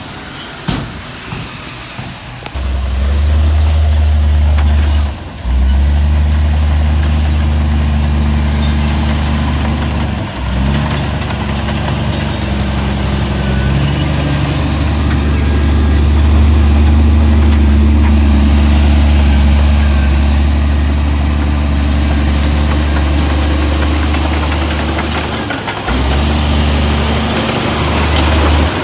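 Heavy diesel engine running with a steady low drone that sets in a couple of seconds in and briefly dips a few times. A few sharp knocks come just before the drone starts.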